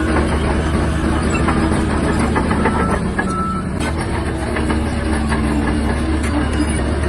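Shantui DH17-C3 bulldozer's diesel engine running steadily under load, with frequent short clicks and knocks over the engine hum.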